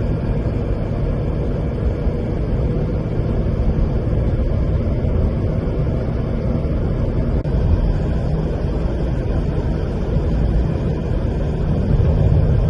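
Steady low rumble of a car driving along the road: tyre and engine noise with no sharp events.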